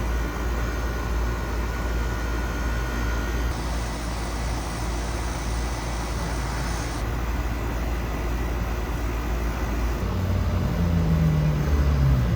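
A 2-ton air-conditioning condensing unit with a newly fitted Copeland scroll compressor running steadily, compressor and condenser fan together giving a low hum under a steady whir. A brighter hiss joins in for about three seconds near the middle.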